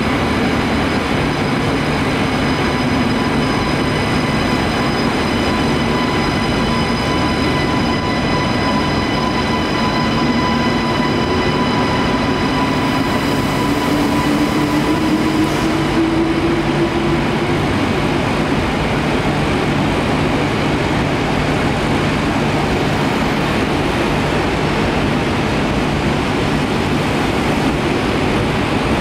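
TGV-POS high-speed train pulling away from the platform and accelerating, with a steady running noise. Its traction whine rises in pitch over several seconds about a third of the way in.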